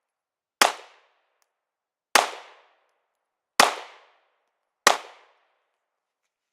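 Four single shots from a Glock 43 9mm pistol, fired slowly at about one every one and a half seconds, each a sharp crack with a short fading tail.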